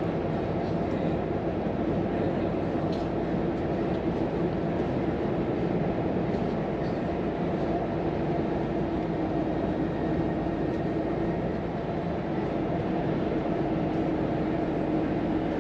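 Volvo FM truck's 13-litre six-cylinder diesel engine and tyre and road noise heard inside the cab at a steady cruise, an even drone with a constant engine tone.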